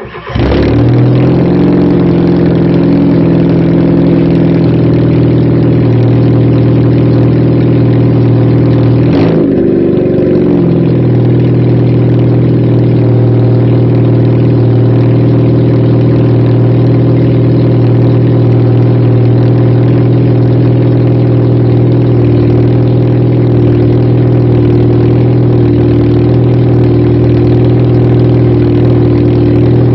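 Fiat Punto II 1.2 four-cylinder petrol engine with its exhaust silencer missing. It starts up suddenly and settles into a loud, steady idle. There is a short blip of revs about nine seconds in, and the revs begin to climb again at the very end.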